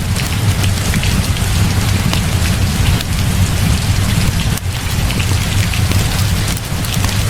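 Heavy rain falling steadily, a dense hiss full of small drop ticks, over a constant low rumble.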